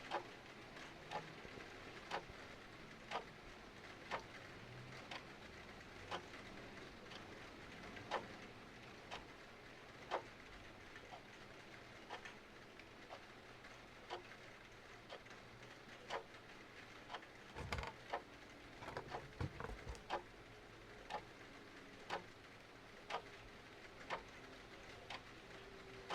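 A clock ticking about once a second over a steady patter of rain, with a short flurry of fireplace crackles and pops a little past the middle.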